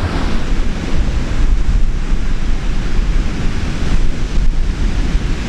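Ocean surf washing on a beach, with wind buffeting the microphone in a heavy low rumble.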